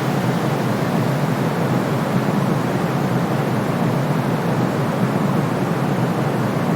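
Steady synthetic noise for soothing a baby, weighted toward the low end like pink or brown noise, with a sharp cut below the deepest bass and no changes in level.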